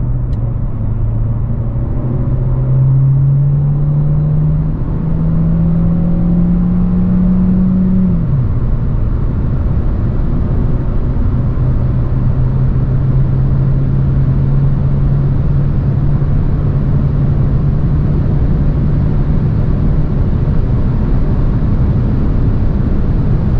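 Renault Clio E-Tech Hybrid's 1.6-litre inline-four petrol engine at full-throttle kickdown, accelerating hard. The engine note climbs in steps, drops once about eight seconds in at an upshift, then rises slowly again, over a heavy, steady rush of road and wind noise.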